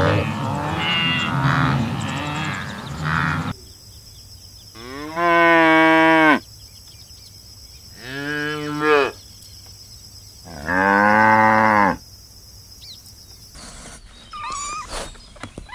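Cattle mooing. At first several overlapping calls, then three long moos from a single cow, each rising and falling over about a second. Near the end come short, higher calls from another animal.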